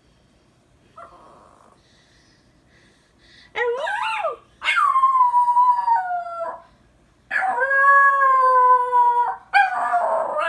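A small dog howling: a short wavering howl about three and a half seconds in, then two long, drawn-out howls of about two seconds each, and a shorter, rougher howl at the end.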